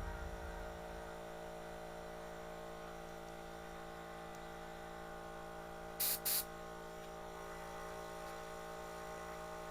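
Steady electrical hum with several fixed tones. About six seconds in, two very short blasts of compressed air from a blowgun.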